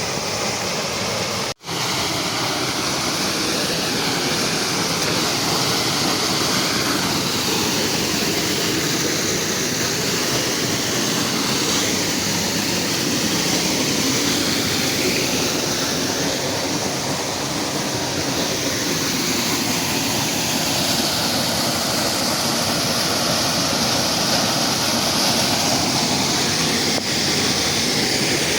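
Steady rush of flowing water, with a brief dropout about a second and a half in.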